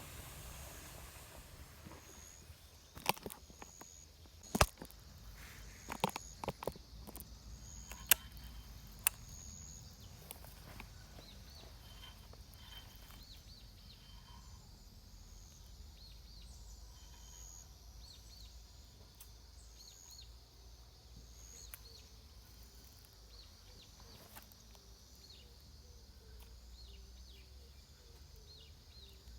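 Outdoor background with a low wind rumble and faint high chirping from insects or birds, broken in the first third by half a dozen sharp clicks and knocks.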